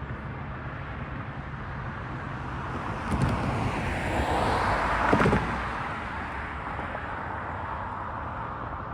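Freight train rolling past: a steady rumble that swells in the middle, with two sharp clacks about two seconds apart.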